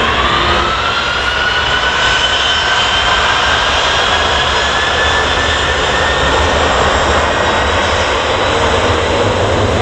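Jet airliner's engines spooling up to takeoff thrust: a loud whine that rises in pitch over the first few seconds and then holds, over a steady rushing engine noise, with deeper rumble building near the end.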